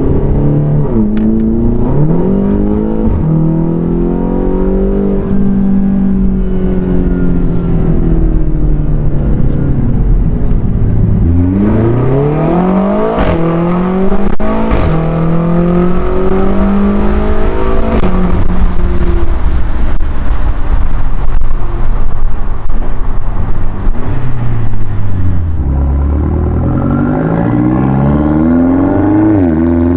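BMW X6M's 4.4-litre twin-turbo V8, with an Eisenmann exhaust and Dinan mufflers, pulling hard through several gears: the engine note climbs and drops back at each upshift, with a couple of sharp cracks during the hardest pull. It is heard from inside the cabin, and near the end from outside by a rear wheel, where it revs up again.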